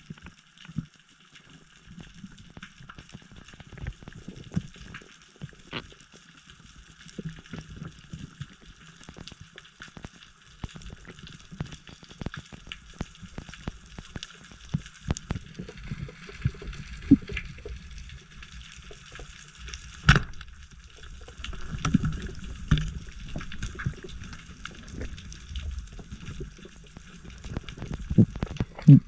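Underwater sound picked up by a camera in its housing: dense irregular crackling and clicking over a low rumble of water movement, with one sharp louder click about twenty seconds in. The rumble grows heavier in the second half.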